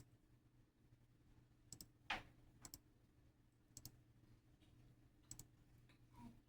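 Near silence over a low steady hum, broken by a few faint, sharp clicks at irregular moments, two of them in quick pairs.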